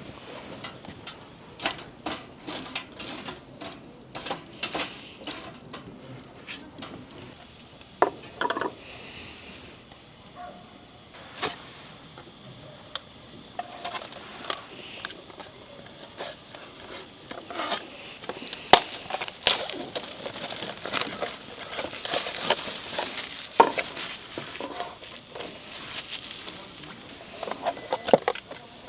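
Camp cooking handling sounds: a string of irregular clicks, knocks and clatter of utensils and food on wood, with a stretch of hissing about two-thirds of the way through.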